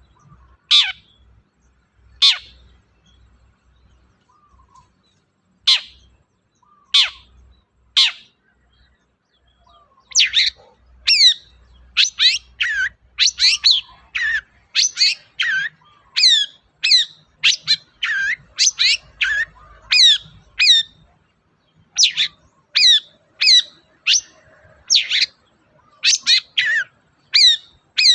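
Long-tailed shrike (cendet) singing: a few separate sharp calls a second or more apart, then from about ten seconds in a fast run of quick notes, several a second, with short breaks.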